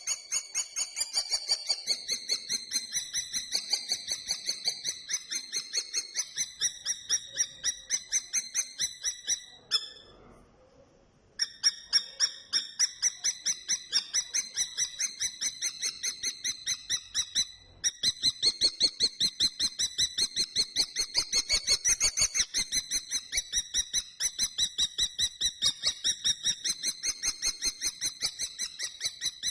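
Common kestrel calling a rapid, continuous string of high kee-kee-kee notes, about five a second, broken by a pause of about a second and a half near the middle.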